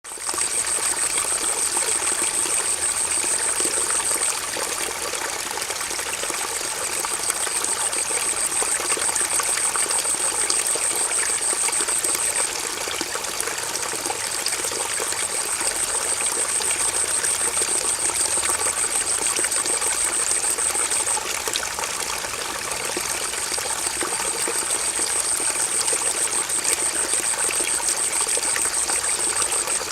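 Stream water flowing and trickling steadily, with a constant high-pitched buzz that runs in long stretches and drops out briefly a few times.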